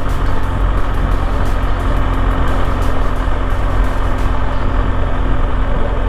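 BMW R1200GSA motorcycle's boxer-twin engine running steadily under way, with wind and road noise, heard through a microphone inside the rider's helmet.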